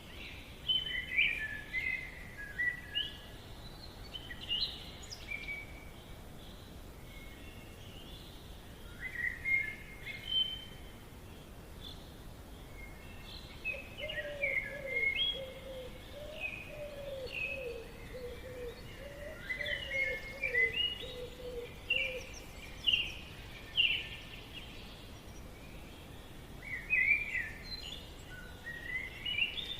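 Forest birdsong: songbirds repeating short, quick chirping phrases. A lower-pitched wavering call joins in the middle, all over a faint steady background hiss.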